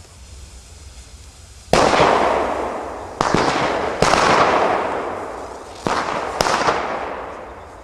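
Pyrotechnic waterfall fountain firework going off in five sudden loud bursts of bangs and crackle, the first about two seconds in, each fading away over about a second.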